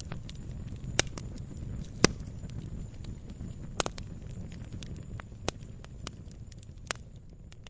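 Wood fire burning: irregular sharp crackles and pops of firewood over a low steady rumble of the flames, with the loudest pops about one and two seconds in.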